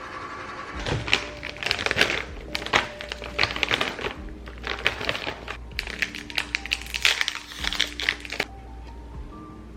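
Rapid, irregular clicking and tapping, like keys or small objects being struck, over background music; it stops about 8.5 seconds in.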